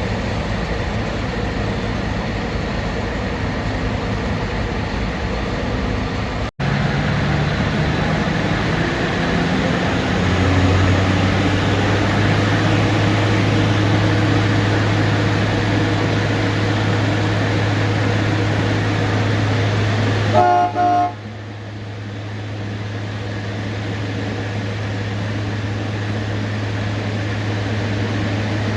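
Cog railway locomotive running with a steady low hum. About twenty seconds in, a short whistle toot sounds and the hum drops away.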